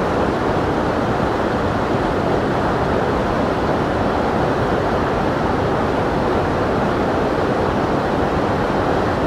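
Waterfall running hard in high snowmelt flow: a steady, even rush of falling water.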